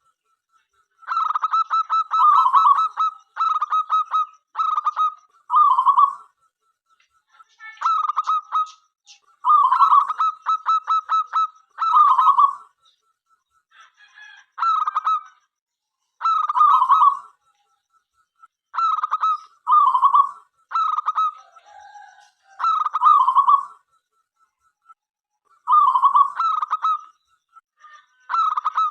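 Zebra dove cooing song: phrase after phrase of quick stuttering notes, each ending in a louder rolling coo, with short pauses between phrases.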